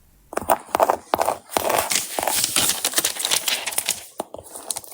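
Dense crinkling and tapping of stickers and sticker paper being handled and pressed down, starting about a third of a second in and running in quick irregular clicks with a few short pauses.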